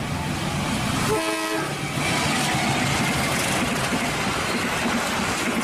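Diesel-electric passenger train running past on the track, a steady rumble and hiss of engine and wheels, with a brief blast of the locomotive's horn about a second in.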